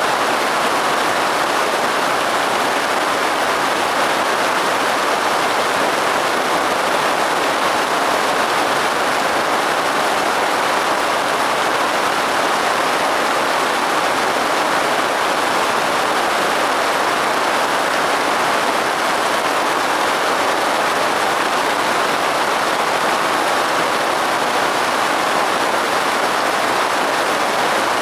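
Steady rain falling, an even, unbroken hiss without thunder or distinct drops.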